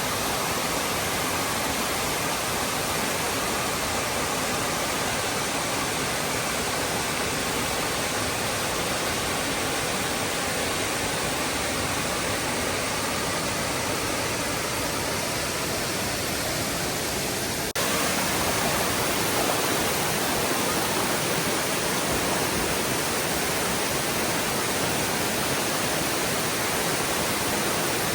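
Waterfall: a steady, even rush of falling water, stepping up a little in level about two-thirds of the way through.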